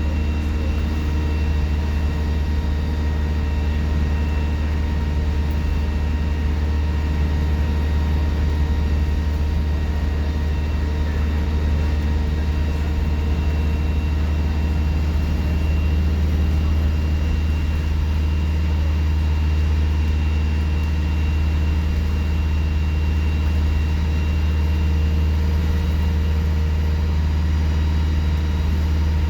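Alexander Dennis Enviro 200 bus's diesel engine running steadily with a deep, even hum, with a thin high whine from the turbocharger over it.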